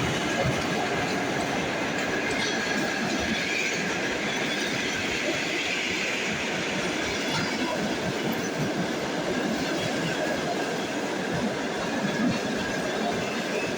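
Passenger train hauled by a ChS7 electric locomotive rolling past, its wheels running on the rails with a steady, even noise throughout.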